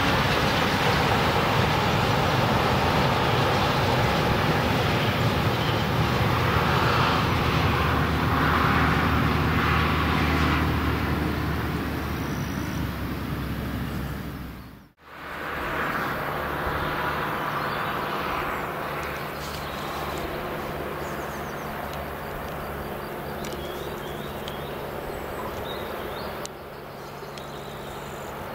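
The tail of a long intermodal freight train of tank containers rolling past on the rails, fading over the first half. After a cut, a quieter, steady rumble of another train approaching in the distance.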